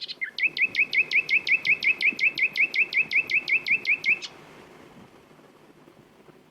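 Nightingale singing a rapid run of about twenty identical repeated notes, some five a second, which stops about four seconds in.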